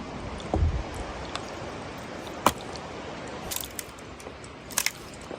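Steady rain hiss with a wood fire crackling: a low thump about half a second in and a few sharp pops, the loudest about two and a half seconds in and a pair near the end.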